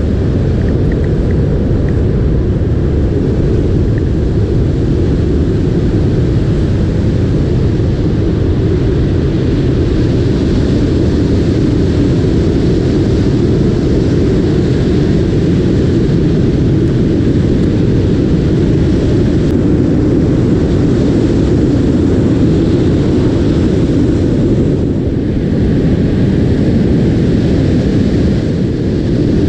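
Strong wind buffeting the GoPro Hero 5's built-in microphone: a loud, steady low rumble that covers everything else.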